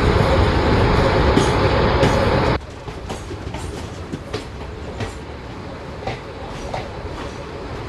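Train running past close by: a loud rolling rumble that drops suddenly about two and a half seconds in to a quieter rumble. Sharp wheel clicks over the rail joints follow every half second to second.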